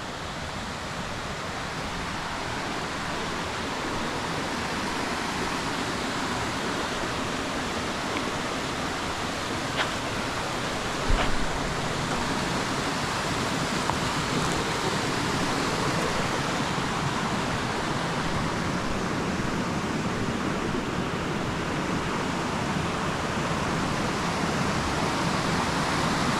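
Steady rush of flowing river water, growing gradually louder. Two short knocks come about ten and eleven seconds in.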